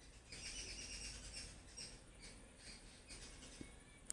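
Small birds chirping faintly in the background: quick, repeated high notes.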